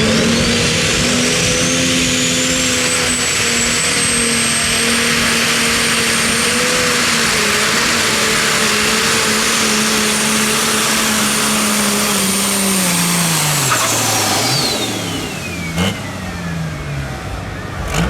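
Pro Stock pulling tractor's turbocharged diesel engine running flat out, its turbo whine climbing in the first few seconds and then holding high. About thirteen seconds in the power comes off and the engine note and the whine wind down together, with a couple of short knocks near the end.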